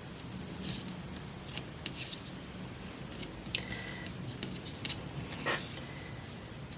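Scissors snipping magazine paper in a series of short, irregular cuts, with a brief paper rustle about five and a half seconds in.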